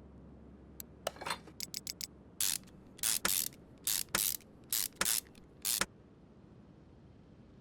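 A few light clicks and taps, then about six short hissing bursts from a pressurised nozzle in quick succession, each lasting a fraction of a second.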